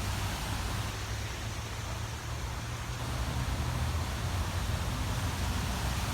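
Steady outdoor background noise: an even hiss over a constant low rumble, with no single event standing out.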